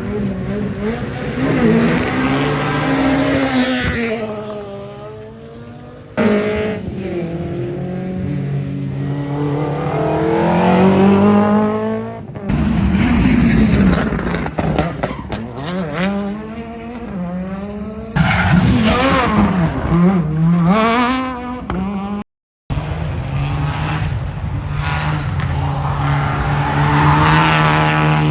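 Rally car engines revving hard through the gears as the cars drive past, the pitch climbing and dropping with each shift, in several short clips joined by abrupt cuts.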